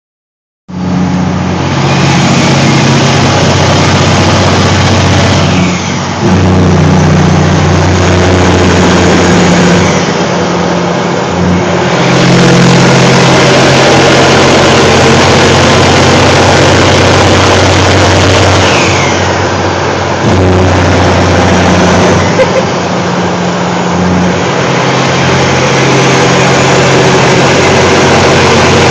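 Straight-piped diesel truck engine on the Jake brake (engine brake), a very loud, steady bark in a tunnel, breaking off briefly about four times.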